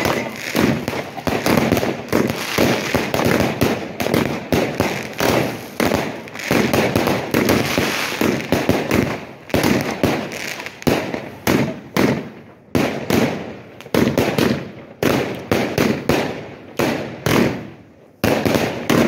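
Fireworks and firecrackers going off in quick succession: a dense, unbroken run of sharp bangs, several a second, overlapping one another.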